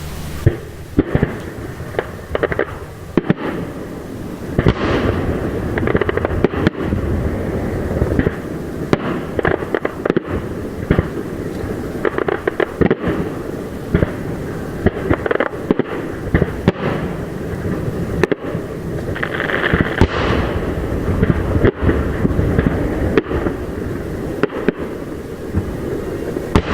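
Aerial fireworks display: a dense, irregular run of shell bangs and crackling, many reports overlapping with hardly a pause.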